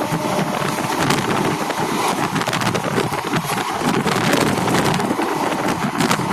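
Passenger train running: a steady loud rush of rattling and wind noise with scattered sharp clacks.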